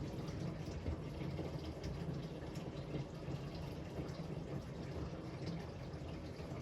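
Water running steadily from a tap and splashing, as if filling a container or rinsing.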